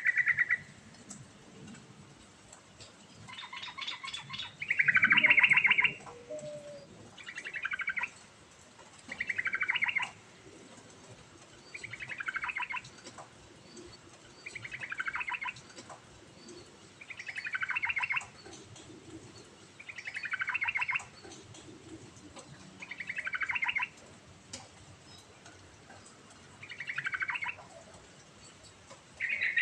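Yellow-vented bulbul (trucukan) singing: a song phrase about a second long, repeated roughly every two and a half seconds, each one sliding down in pitch at its end. The phrases around the fifth second are the loudest.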